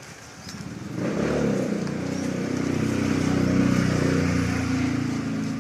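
A motor vehicle's engine running close by. It comes in about a second in and holds a fairly steady pitch.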